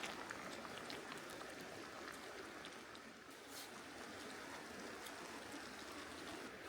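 Steady rushing of a flowing stream, faint and even, with a few light ticks and crackles over it.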